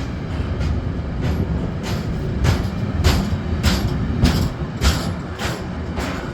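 Train rolling past over jointed track: a steady low rumble with sharp wheel knocks repeating about every 0.6 seconds, loudest in the middle.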